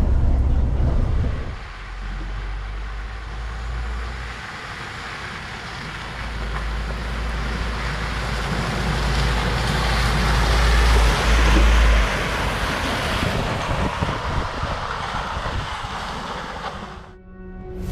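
Scania R480 timber truck running, a deep low engine rumble under heavy wind noise on the microphone, the sound shifting abruptly several times.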